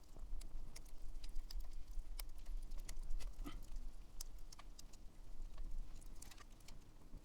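Campfire burning, the wood crackling and popping in irregular sharp snaps.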